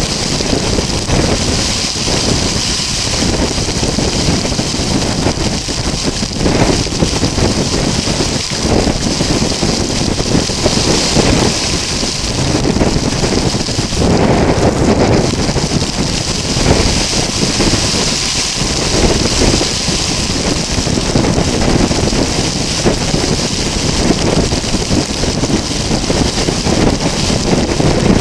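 Stormy wind and rain: a loud, steady rushing hiss, with gusts buffeting the microphone in uneven low rumbles.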